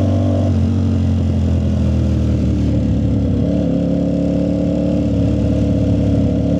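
Ducati Streetfighter V4S's 1103 cc V4 running steadily through an aftermarket Zard exhaust. Its pitch dips slightly about half a second in and rises a little around three and a half seconds.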